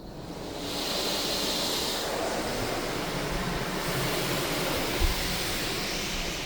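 Belanger Kondor KL2 touchless car wash starting a new pass over the car, heard from inside the car: a steady rushing noise that comes on suddenly, with a single thump about five seconds in.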